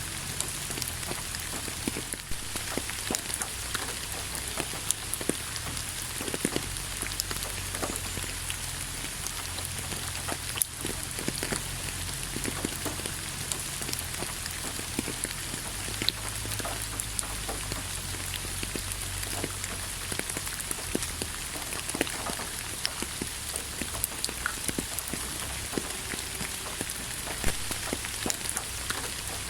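Steady rain, with many separate drops striking close by over an even hiss and a steady low rumble underneath.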